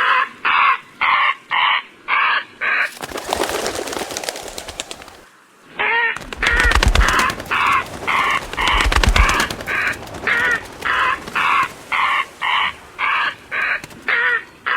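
A flock of cartoon seagulls squawking in a fast run of calls, about two to three a second. It is broken about three seconds in by a rushing, scuffling commotion that fades out, after which the squawking resumes over a stretch of heavy low thuds.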